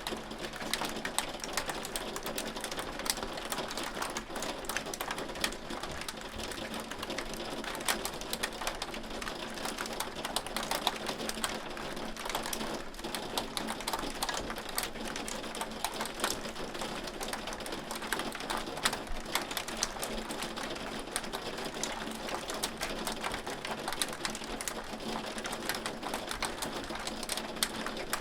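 Hail falling steadily: a dense, irregular stream of small sharp ticks and clicks over a constant hiss, with scattered louder hits.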